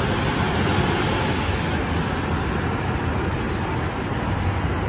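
E7/W7 series Shinkansen train running along the platform, a steady noise of wheels and air that eases slightly toward the end.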